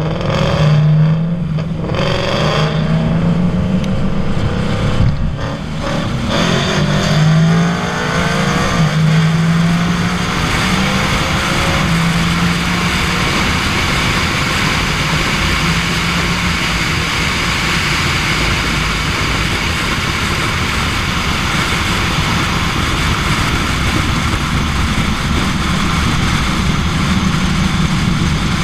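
Supercharged BMW E92 M3 V8 pulling, with rising engine notes between about five and nine seconds in. It then settles into a long stretch at speed where steady wind rush over a roof-mounted microphone drowns most of the engine.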